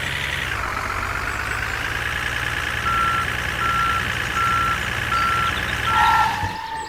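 Truck engine running steadily, its pitch dipping in the first half second, with a reversing alarm giving five evenly spaced beeps from about three seconds in.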